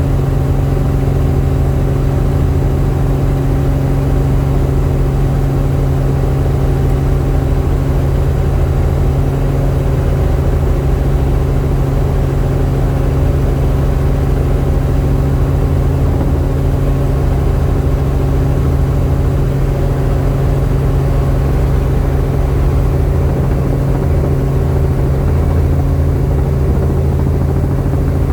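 Helicopter's engine and rotors running steadily, a constant loud drone with a low throb underneath.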